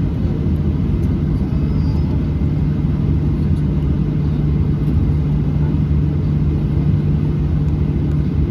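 Inside the cabin of a Boeing 737-800, the steady low rumble of its CFM56-7B turbofan engines and airflow, with a steady low hum running through it.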